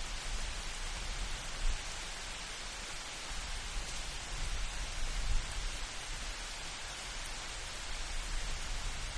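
Steady rain hiss from a light thunderstorm, with a low rumble underneath that swells for a couple of seconds midway.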